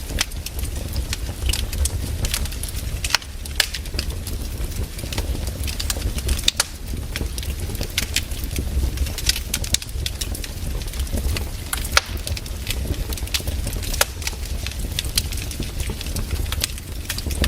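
Fire in a fireplace crackling, with irregular sharp pops and snaps over a steady low rumble; a few pops stand out louder.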